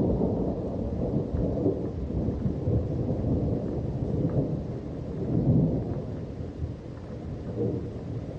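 Low, continuous rumble outdoors that swells and fades every second or two, with a few faint ticks.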